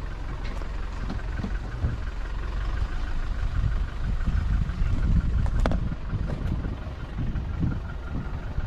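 Vehicle engine running at low revs as it crawls along a rough bush track, with uneven knocks and rattles. A sharp knock comes about five and a half seconds in.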